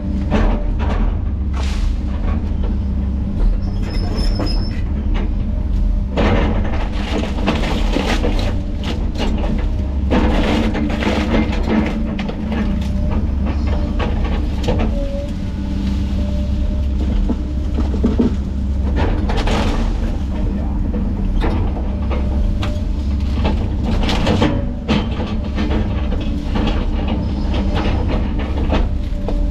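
ASV RT120 forestry mulcher running steadily under load, its diesel engine droning while the Shearex mulcher head grinds wood, with irregular crunching and cracking bursts.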